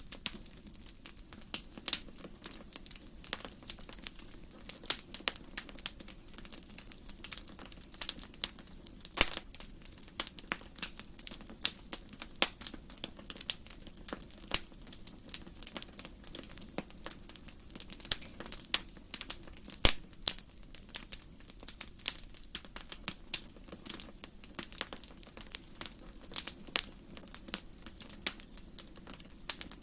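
Wood fire burning in a fireplace, crackling with irregular sharp pops and snaps over a faint low hiss.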